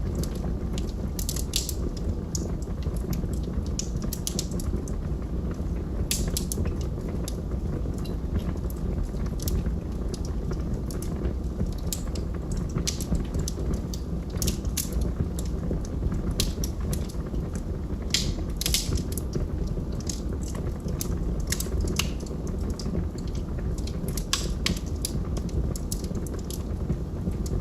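Log fire crackling: irregular sharp pops and snaps from the burning wood over a steady low rumble of the flames.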